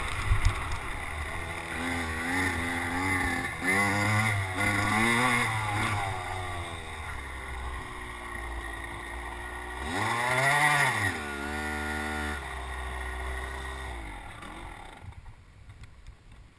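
Kawasaki KX100 two-stroke single-cylinder dirt bike engine revving in several short throttle blips, running steadier, then giving one strong rev up and back down about ten seconds in. The engine sound then fades away near the end.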